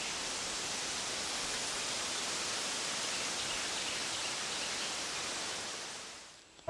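Steady outdoor background hiss with no distinct sounds in it, fading out near the end.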